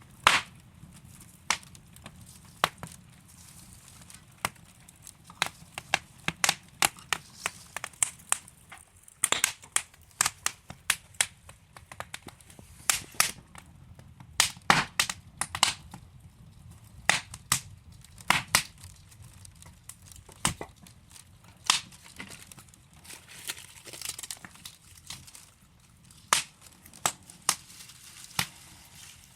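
Wood fire crackling: burning logs giving sharp, irregular pops and snaps, several a second, over a faint low hiss of the flames.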